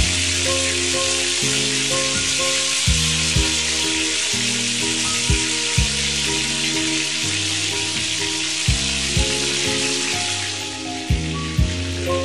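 Kaymati doughnuts deep-frying in hot oil: a dense, steady sizzle that thins near the end. Background music with a beat and bass notes plays underneath.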